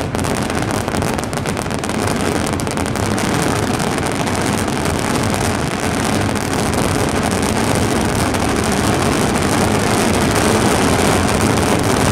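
Dense fireworks barrage: a rapid run of bangs and crackles merging into one continuous roar.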